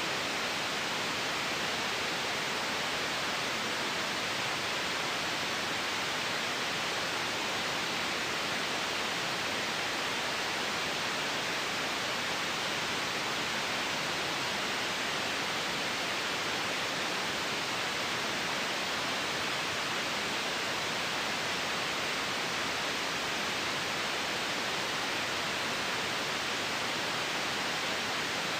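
Steady white noise: an even, unchanging hiss, brightest toward the treble.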